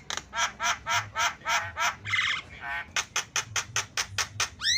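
Javan myna giving a rapid run of harsh chattering calls, about four a second, broken by a buzzy rattle about two seconds in, then a quicker burst of notes and a rising whistle at the end.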